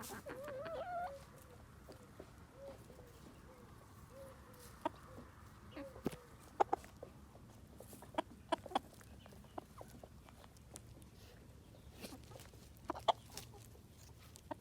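Bantam Silkie chickens clucking softly: a wavering call in the first second, low clucks over the next few seconds, then scattered short sharp ticks.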